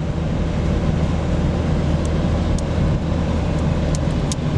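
Steady engine and road noise of a car driving, heard from inside the cabin: an even low rumble with tyre hiss.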